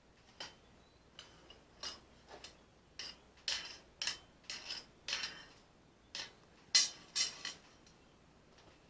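Steel being struck with metal in a forge shop: about fifteen irregular, sharp clinks and knocks, each with a short metallic ring, the loudest a little past the middle.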